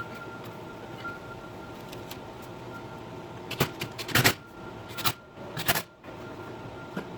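A quick run of clattering knocks from grill parts being handled during assembly, with the loudest clatter about four seconds in, over a steady faint hum.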